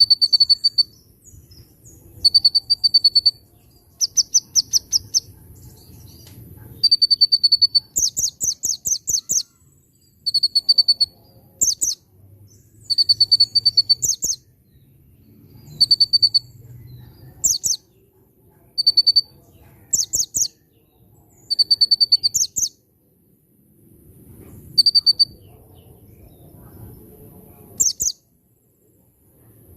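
Kolibri ninja sunbird singing loudly and continuously. It repeats short high phrases every second or two, alternating a trilled note with fast buzzy trills, the kind of song that may include imitated prinia (ciblek) phrases.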